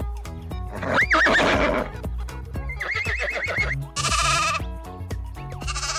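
Horse neighing several times, including a quavering whinny about three seconds in, over background music.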